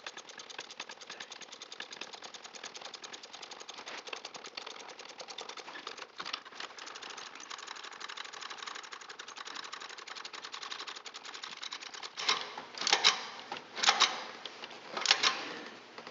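Socket ratchet clicking rapidly as the EGR valve's mounting bolt is run down, then about four louder, separate ratchet strokes near the end as the bolt is snugged tight.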